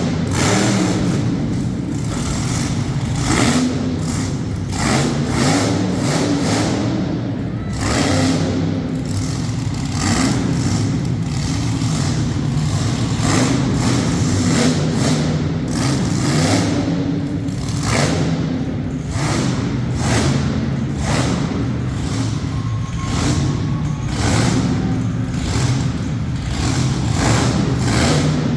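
Monster truck engine running loud through a run, with a steady deep drone and many short sharp surges as the throttle is blipped and the truck bangs over cars.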